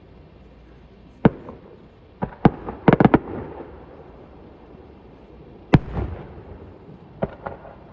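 Fireworks going off: a string of sharp bangs at irregular spacing, with one about a second in, a quick cluster of several around three seconds, a single loud bang near six seconds and two more near the end.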